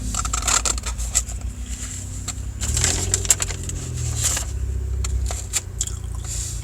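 Steady low rumble of a car interior with scattered small clicks and scrapes of handling.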